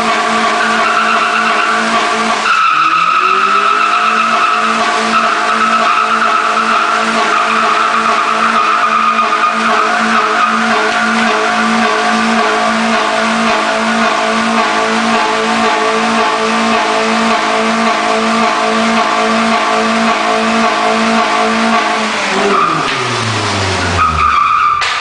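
Turbocharged Suzuki Baleno doing a burnout: the engine is held at high revs while the spinning front tyres squeal. About two and a half seconds in the revs dip and climb back, and near the end the revs fall away as the burnout ends.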